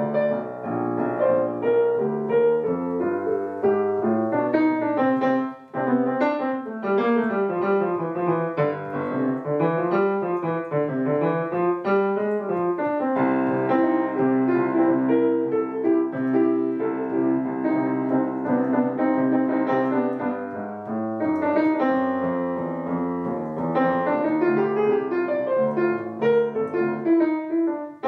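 Background piano music: a flowing melody with rising and falling runs of notes.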